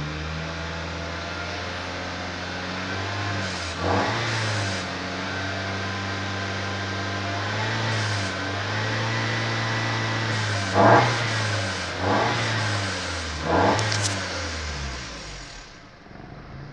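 2011 Holden Cruze's 1.4-litre turbo petrol engine being revved from inside the cabin: it is held at raised revs of about two to three thousand rpm and blipped sharply four times. It then drops back to idle near the end.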